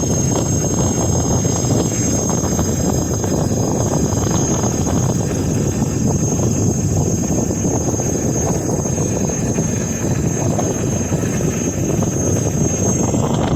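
Ola S1X 3 kW electric scooter on the move: a steady rumble of tyre and road noise with a steady high-pitched whine over it from the hub motor. The rider suspects the unusual noise comes from the tyres rather than the motor, since it changes between cement and asphalt road.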